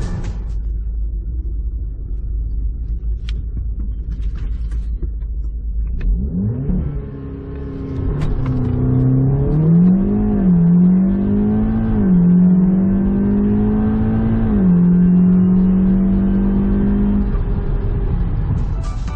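Audi S3 8P's turbocharged 2.0-litre four-cylinder heard from inside the cabin, running at a steady low drone. About six seconds in it goes to full throttle, and the engine note climbs through the gears with a quick drop at each upshift, three shifts in all. It then holds a steady note and eases off near the end.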